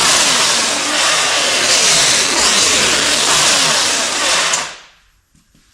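Engine running loud with its pitch rising and falling, cutting off abruptly near the end.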